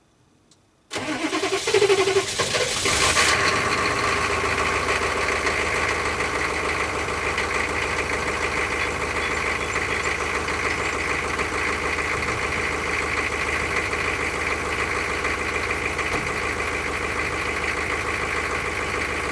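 GM 6.5-litre turbo-diesel V8 in a Chevy K2500, heard from the exhaust, cranking for about two seconds and catching easily, then settling into a steady idle.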